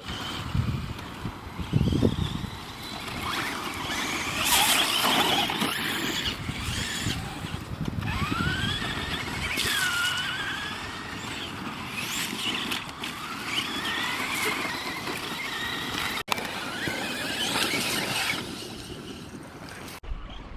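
RC car motors whining as they are throttled up and down, their pitch rising and falling, over a steady rushing noise.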